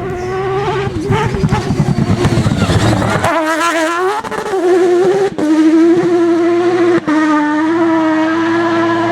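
Mazda rotary engine of a Peugeot 205 rally prototype running hard at high revs, its pitch wavering up and down, with two brief drops in sound near the middle and a steadier high-pitched note toward the end.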